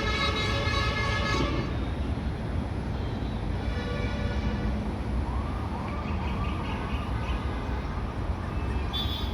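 A warbling siren repeats a quick rising-and-falling tone several times in the middle, over a steady low rumble of vehicle noise. Steady sustained tones sound near the start and again a few seconds in.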